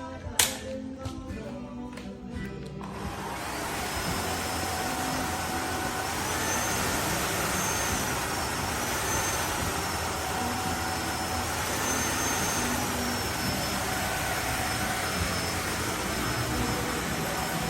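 Soft background music, then about three seconds in a cordless wet-dry floor vacuum's motor starts and runs steadily, with a thin high whine that wavers up and down in pitch.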